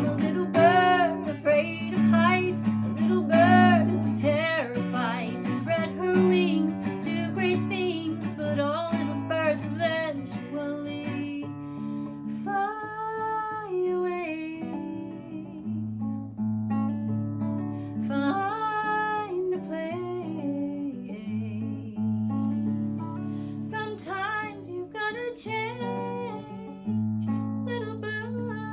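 Acoustic guitar music with a wordless, wavering vocal melody above it, fading near the end.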